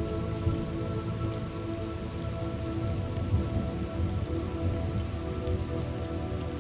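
Steady rain falling, with a low rumble underneath, from a thunderstorm ambience track. A soft, sustained music drone of several held tones plays beneath it.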